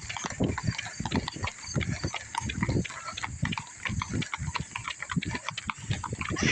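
Horses of a wagon train walking past, their hooves clopping in a dense, irregular run of knocks.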